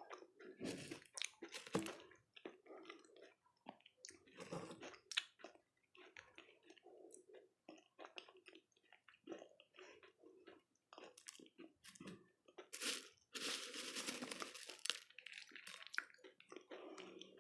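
Close-miked crunching and chewing of dahi golgappe, crisp hollow fried puris filled with curd, as a mouthful is bitten and chewed in many short crunches. A louder, longer crunching stretch comes about thirteen seconds in.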